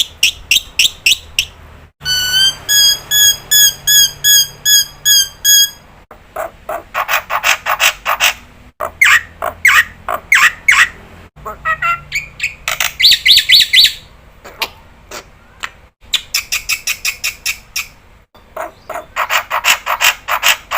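Starlings (jalak), including the black-winged myna (jalak putih), calling loudly. Quick runs of harsh repeated notes, about four to five a second, alternate with a stretch of clear piped whistles, and the calls change abruptly every few seconds.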